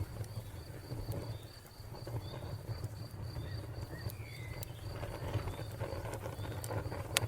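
Wood fire crackling with scattered sharp pops, the loudest near the end, over a low steady rumble. A cricket chirps in a fast, even pulse throughout, with a few faint bird chirps.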